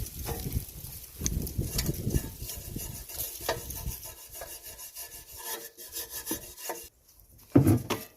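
Hand wire brush scrubbing surface rust off sheet metal in irregular scraping strokes, with small clicks. The scrubbing pauses briefly near the end, and a single knock follows.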